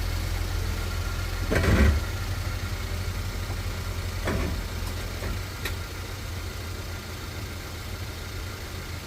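Ford Explorer EcoBoost engine idling steadily, freshly refilled with oil, with a thump about a second and a half in and a few faint clicks later.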